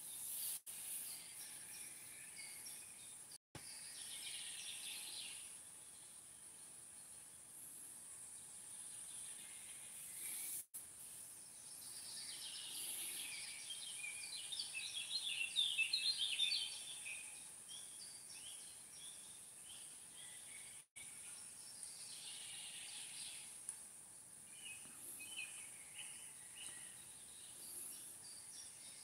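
Birds chirping and twittering over a steady high-pitched hiss, with a stretch of busy, rapid chatter about halfway through. The sound cuts out completely for an instant three times.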